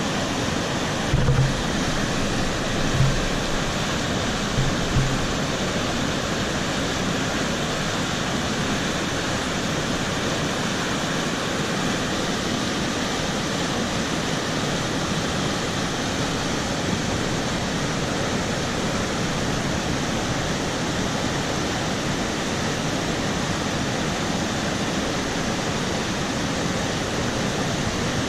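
Swollen mountain stream in monsoon flood, rushing steadily. A few dull low bumps come in the first five seconds.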